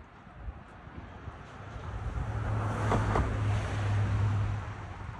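A motor vehicle passing on the street: a low engine hum and road noise swell up, peak in the middle, and fade away near the end.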